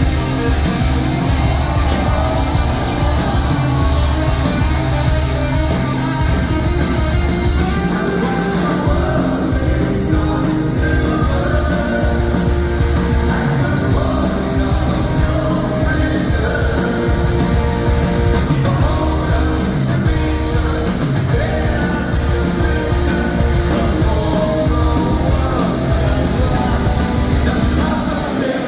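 Rock band playing live and loud: distorted electric guitars, heavy bass and drums, with a singer's voice in places.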